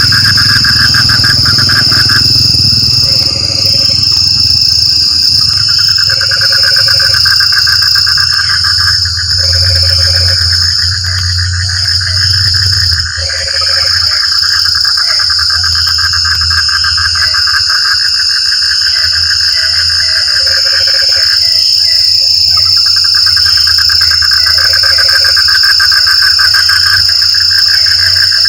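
Night chorus of frogs: a continuous fast trill, with short lower croaks repeating about every two seconds, over a steady high-pitched insect buzz. The trill drops out briefly a couple of times.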